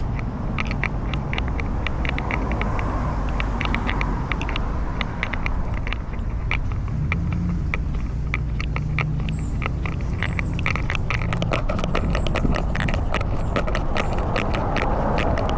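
Low rumble and rubbing noise from a cat's collar camera moving with the cat, with many quick ticks and crackles that come thicker in the last few seconds.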